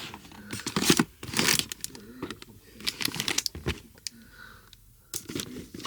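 Irregular crinkling and rustling of packaging as boxed collectable figures are handled and rummaged through, in bursts with short pauses.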